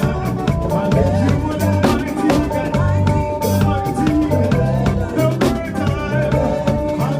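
Makossa-style praise band music with a live drum kit keeping a fast, steady beat under bass and melody.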